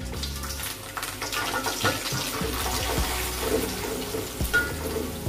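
Small dried anchovies sizzling as they are dropped into hot oil in a wok and stirred, with a few knocks of the spatula against the pan.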